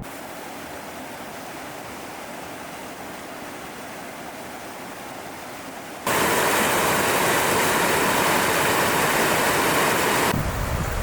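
Rushing water of a fast mountain stream, a steady hiss that jumps abruptly much louder about six seconds in. Near the end the water noise drops back and a low rumble of wind on the microphone comes in.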